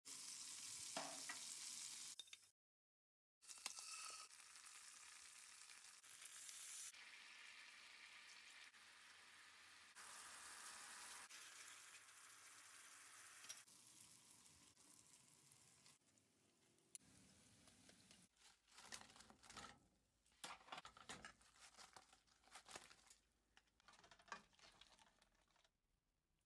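Chicken frying in hot oil, a steady sizzle interrupted by a short cut a few seconds in. The sizzle fades in the second half, giving way to scattered light clicks and scrapes, like utensils stirring or turning the pieces.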